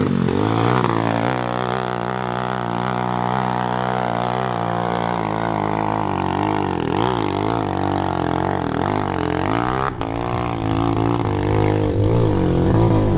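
Small pit bike engine running hard with a steady droning note, its pitch wavering up and down with the throttle, briefly dropping about ten seconds in.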